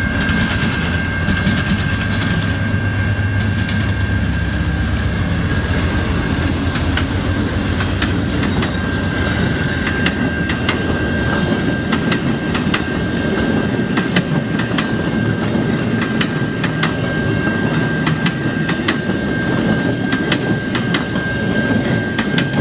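Passenger train passing through a level crossing. A heavy low rumble from the locomotive comes first, then repeated sharp wheel clicks over the rail joints as the cars go by. A steady high tone runs underneath.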